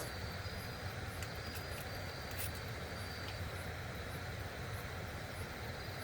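Steady rush of a fast-flowing stream, with a thin high insect trill that comes and goes and a few faint clicks.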